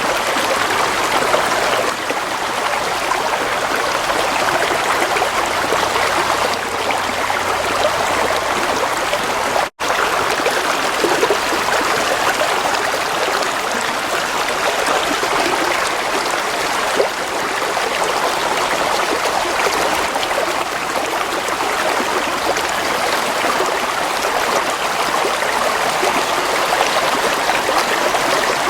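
Gently flowing water, a steady stream-like rush and trickle that cuts out for an instant about ten seconds in.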